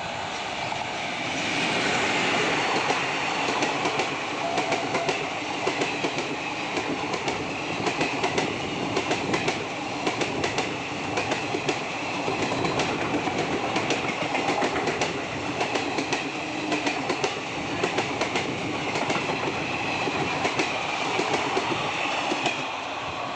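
WAG-7 electric locomotive and its rake of passenger coaches passing close at speed: a steady rumble of wheels on rails with a rhythmic clickety-clack of the wheels over the rail joints, the clacks coming in pairs. It gets louder about a second and a half in as the locomotive goes by, then stays loud as the coaches pass.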